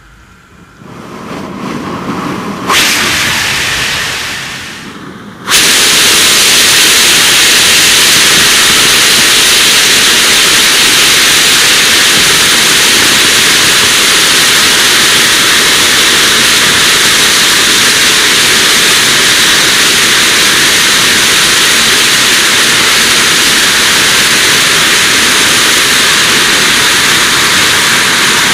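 Rocket engine static test firing. A rising hiss builds over the first few seconds, then about five seconds in the engine comes up to full thrust all at once: a loud, steady rushing noise that holds without change.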